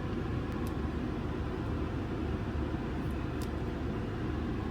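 Steady low rumble inside a car's cabin while it waits at a red light, its engine idling, with a couple of faint small clicks.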